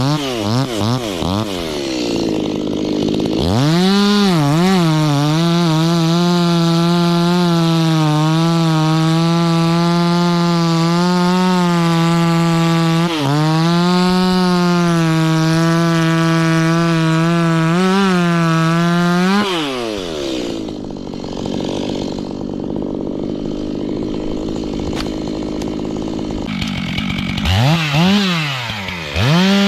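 Stihl two-stroke chainsaw blipped a few times, then held at full throttle cutting through the umbrella tree's wood for about fifteen seconds, its pitch dipping slightly under load. The throttle is then let off and the saw runs lower and quieter, before it is revved up again near the end.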